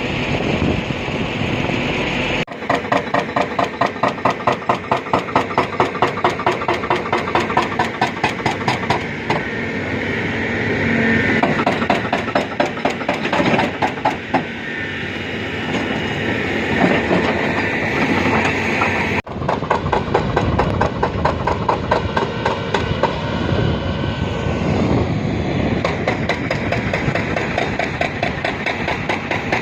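Tracked heavy earthmoving machines, a D155 crawler bulldozer and a 340-class crawler excavator, with diesel engines running and steel tracks clanking. For a stretch the clanking is a steady rhythm of about three strokes a second. The sound changes abruptly twice.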